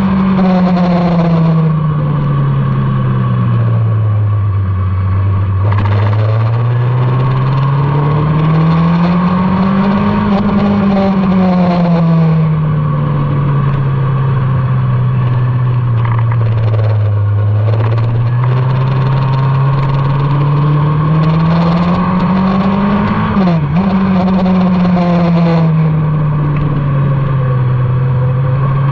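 Motorcycle engine running on a race track, its revs rising and falling in long slow swells through the corners, with one quick drop in pitch a little over twenty seconds in. A steady rush of wind noise runs under it.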